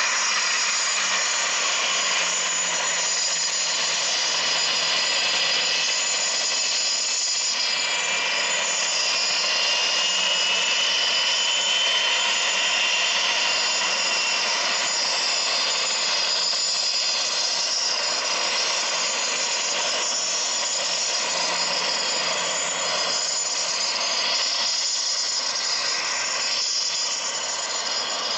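Business jet turbofan engines running: a steady rushing noise with high whining tones. One whine rises slightly a third of the way in.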